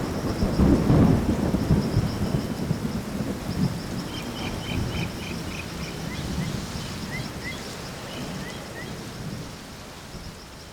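Thunder rumbling, loudest about a second in and then slowly fading away, with rain beneath it. Short bird chirps and a steady high chirring sit faintly on top through the middle.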